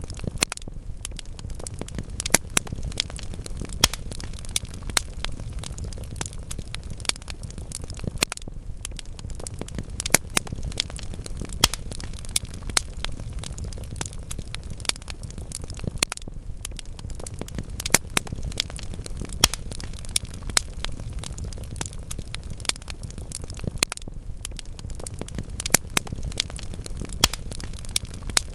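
Wood fire crackling in a fireplace: a steady low rumble of burning logs with frequent sharp pops and snaps at irregular moments.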